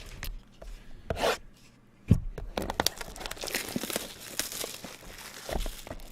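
Plastic wrapping on trading-card packs or boxes being torn open and crinkled, with one sharp knock about two seconds in.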